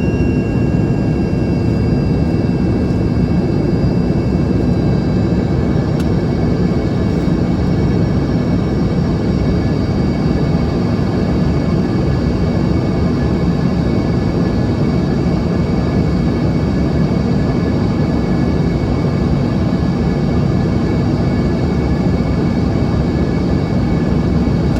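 Steady cabin roar of an Embraer ERJ-145 in flight, its rear-mounted Rolls-Royce AE 3007 turbofans running evenly, with faint high whining tones over the rumble.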